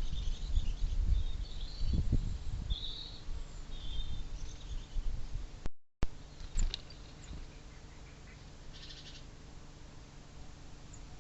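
Small birds chirping at a feeder, with low rumbling noise on the microphone for the first few seconds. The sound drops out briefly about six seconds in, then come a few clicks and one short buzzy call.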